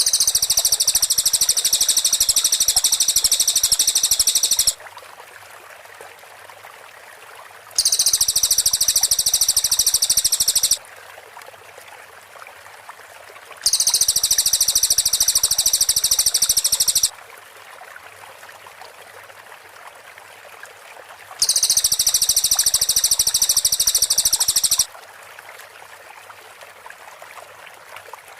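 Cililin bird singing its rapid, very high-pitched burst phrases, four bursts of about three to four seconds each, separated by pauses of about three seconds. A faint steady hiss fills the pauses.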